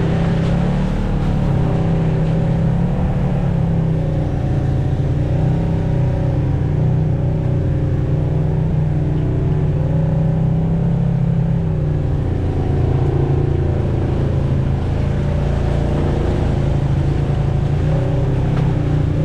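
Off-road vehicle engine running steadily while driving on a trail, its pitch shifting a little with the throttle.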